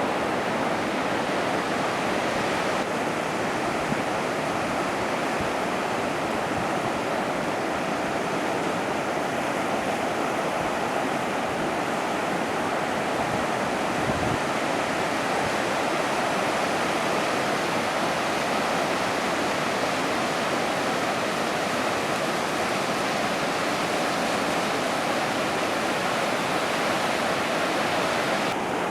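Ocean surf breaking, a steady, unbroken rush of water noise with no single crash standing out.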